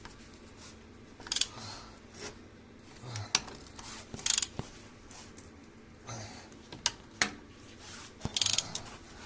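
Hand ratchet wrench clicking in several short bursts, with metal tools clinking, as bolts are run in on the subframe mounting.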